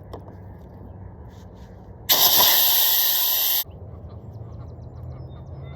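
Air hissing out of an inflatable paddle board's valve: one loud hiss about two seconds in, lasting about a second and a half and cutting off suddenly, as the board is let down after paddling.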